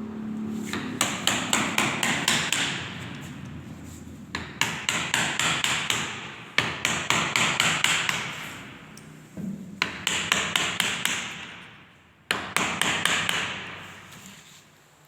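Hammer blows on upholstered sofa woodwork, coming in about five quick bursts of several strikes each, roughly five strikes a second, as the sofa set is being taken apart for repair.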